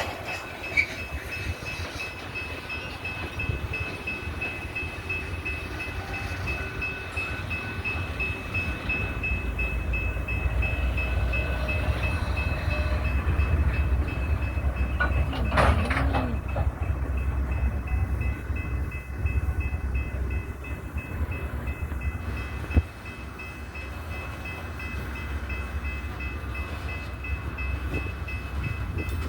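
Loaded coal train moving slowly, with a steady low rumble from its diesel locomotives and rolling cars. A brief sweeping sound comes about halfway through, and a single sharp knock near the two-thirds mark, after which the rumble is quieter.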